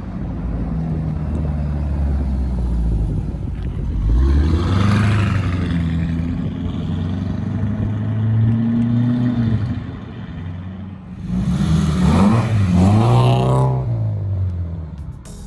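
Mansory-modified Lamborghini Urus's twin-turbo V8 pulling away, its engine note rising about four seconds in and then running steadily. About eleven seconds in, a second car, the Mercedes 190E Evo II DTM recreation, revs hard with a rising then falling engine note, the loudest part.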